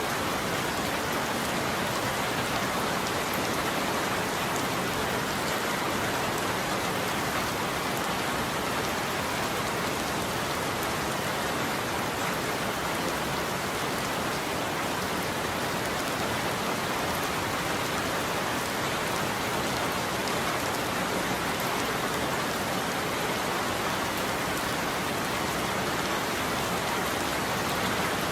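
Steady rain falling and pattering on surfaces, an even downpour with no thunder.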